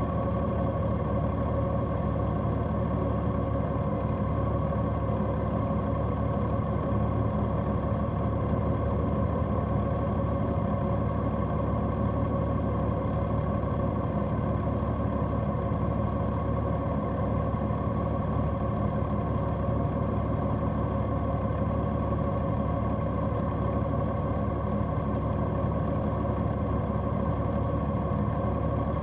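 A large motorcycle's engine running at an unchanging pitch: a constant drone with a steady whine over it, with no change in speed or revs.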